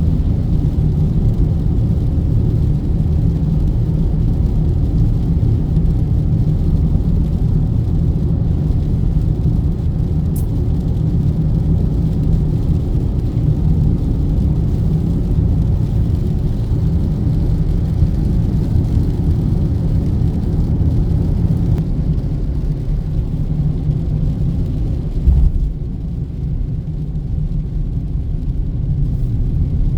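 Steady low road and engine rumble inside a moving car, with a fainter hiss over it. A short thump comes about 25 seconds in, after which the hiss gets quieter.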